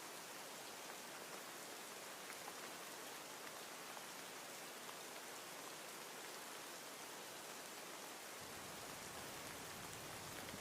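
Steady, faint rain with the patter of many small drops falling on a surface. A deeper low layer comes in suddenly about eight seconds in.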